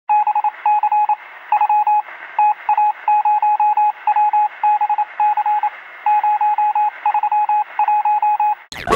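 Morse code: a single steady beep keyed on and off in short and long groups over a constant radio hiss, sounding thin and band-limited like a radio receiver. Near the end it breaks into a sudden sweeping burst of noise.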